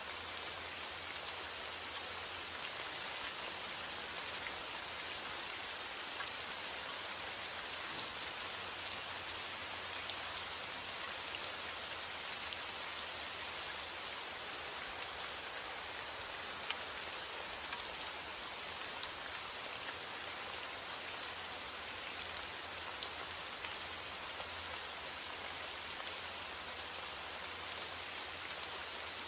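Heavy rain falling steadily: an even hiss peppered with faint ticks of individual drops.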